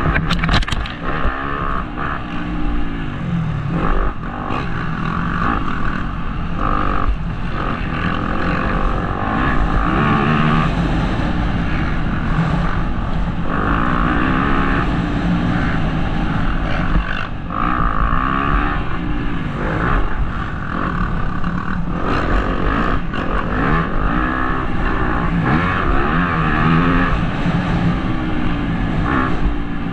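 Motocross bike engine heard from a helmet-mounted camera, revving up and falling off again and again as the rider accelerates and shuts the throttle around the track.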